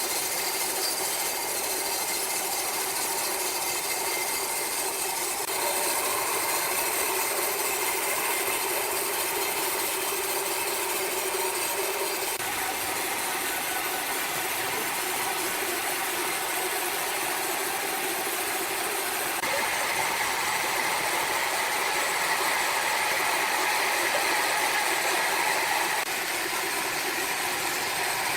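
Sawmill machinery running steadily, with a continuous mechanical drone and rattle. Its tone shifts abruptly several times.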